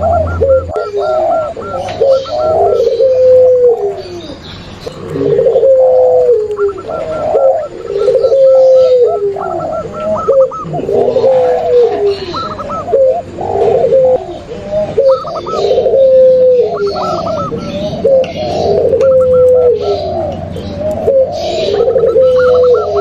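Several doves cooing over one another without a break: zebra doves, spotted doves and puter pelung collared doves, mixed as a lure call. Deep coos that fall in pitch repeat about every second or so. Quick runs of higher, rapid notes break in now and then.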